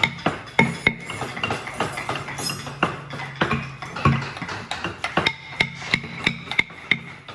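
Rapid, irregular sharp knocks and clicks, several a second, over a low steady hum.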